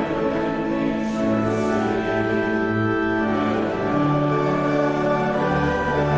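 Church organ playing slow, sustained chords, each held for a second or two before moving to the next.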